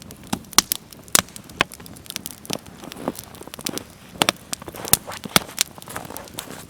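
Small wood campfire crackling, with many sharp, irregular pops and snaps, several a second.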